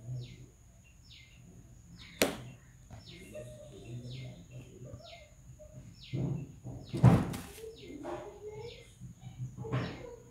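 A small bird calling over and over, a series of short chirps that each slide down in pitch, about two a second. Two sharp knocks cut through, the louder one about seven seconds in, over a faint low murmur.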